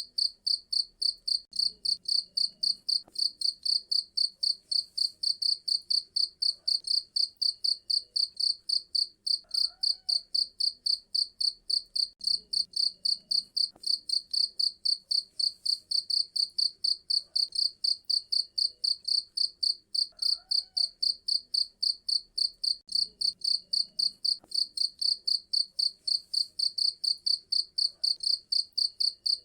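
Cricket chirping steadily in a fast, even rhythm of high-pitched pulses, about four a second.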